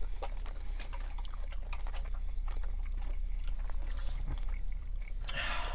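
Close-miked chewing with small wet mouth clicks, over a steady low hum. A brief louder hiss comes near the end.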